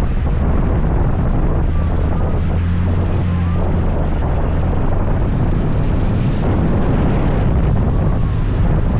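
Scooter engine running steadily while riding, with wind noise on the microphone.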